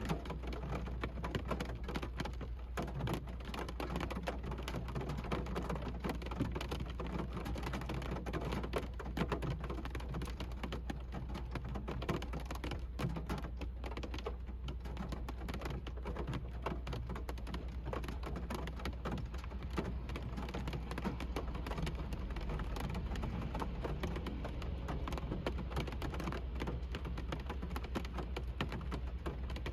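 Rain drumming on a car's roof and windshield, heard from inside the cabin: a dense, steady patter of drops over a constant low rumble.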